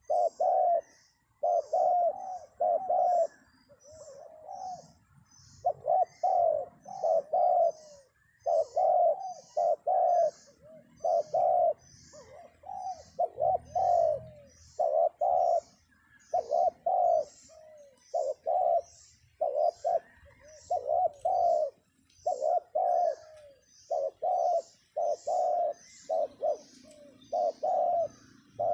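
Spotted dove (terkukur) cooing repeatedly in short phrases of low coo notes, used as a lure call to bring doves down to the trap. An even series of high chirps, about two a second, runs alongside.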